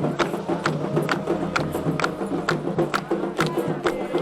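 Candomblé ceremonial music: a quick, even pattern of sharp percussion strikes, about three to four a second, over steady sung or sustained pitched tones.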